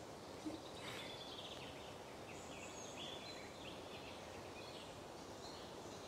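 Small birds chirping faintly in short, high notes over a steady outdoor background hiss, with one soft bump about half a second in.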